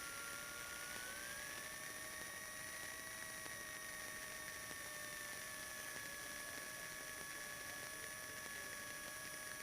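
Faint engine drone and whine from a 1977 Cessna 150's Continental O-200 engine in flight on final approach. The whine rises in pitch about a second in, then slowly eases back down.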